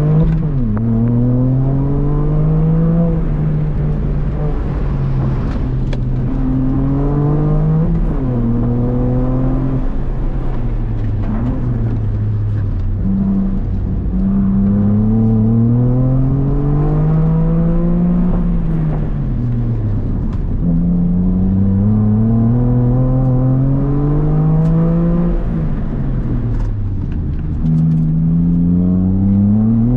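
Toyota GR Corolla's turbocharged 1.6-litre three-cylinder engine driven hard, heard from inside the cabin: its pitch climbs over a few seconds under throttle, then drops back as the driver lifts or brakes, again and again.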